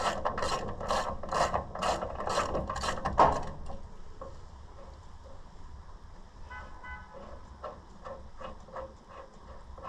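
Hand ratchet wrench being worked in quick strokes, about two a second, clicking loudly, then stopping about three and a half seconds in; faint scattered clicks and ticks follow.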